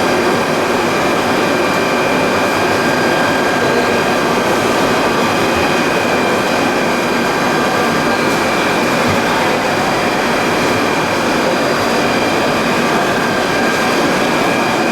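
Plastic pelletizing line machinery running for PE with calcium carbonate filler: a loud, steady mechanical noise with a constant high whine that does not change.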